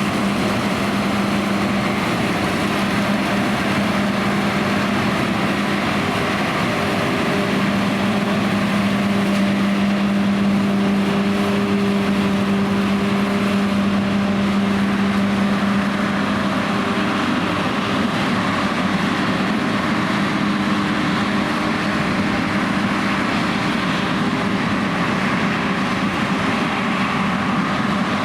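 John Deere X9 1100 combine harvester running steadily while combining oilseed rape: a constant machine drone with a hum that holds one pitch throughout.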